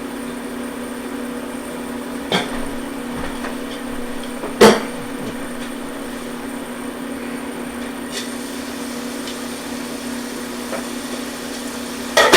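Cookware knocking against a sauté pan over a steady hum: a light knock, then a loud clack about four and a half seconds in, a few faint taps, and another loud clack near the end.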